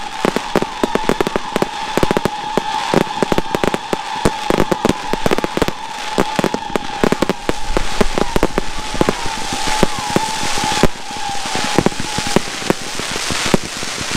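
Aerial firework shells bursting in rapid, dense succession, many bangs a second, with crackling, over a steady high tone that fades near the end. In the last couple of seconds the bangs thin out and a crackling hiss takes over.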